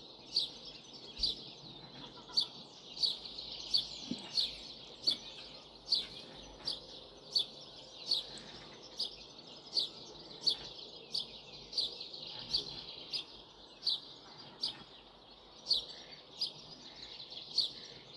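A bird chirping over and over, about one and a half short, high chirps a second, over the steady hiss of a running creek.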